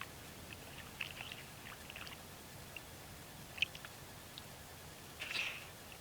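North American beaver working branches at the water's edge: scattered small crackles and clicks of wood, with a longer, louder crackling rustle near the end.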